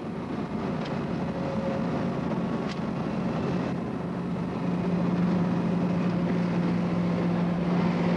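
Triumph Stag prototype running at speed: a steady engine drone with wind and road noise, the engine note growing louder about halfway through and holding a constant pitch.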